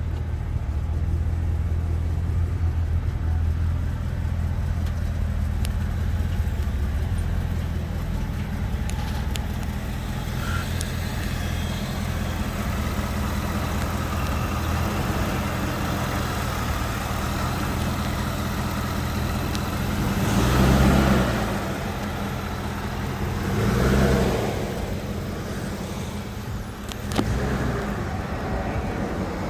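Truck engine running steadily. It swells and rises then falls in pitch three times in the second half, like brief revs.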